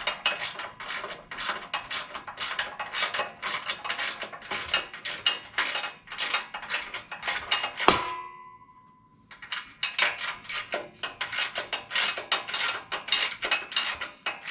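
Rapid metallic clicking and clinking of hand tools working the screws on a mower, about five clicks a second. About eight seconds in there is one loud ringing clang, then a short pause, then the clicking starts again.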